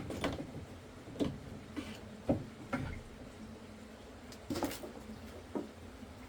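Scattered light knocks and clicks at an irregular pace, several loud ones about a second apart early on, then a pair near the middle.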